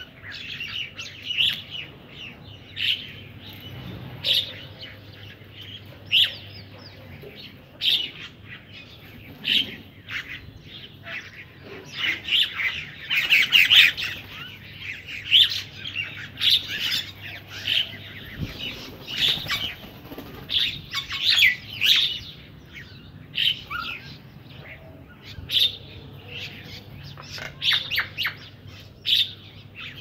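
Several birds at a feeding spot give short, harsh, squeaky calls and chatter about once a second, thickening into a busier burst of calling near the middle.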